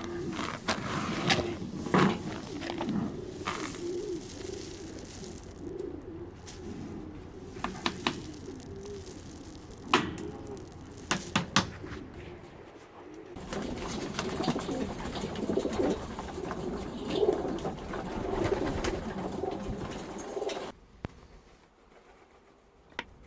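Racing pigeons cooing, many low wavering coos overlapping, with scattered sharp taps. The sound cuts off shortly before the end.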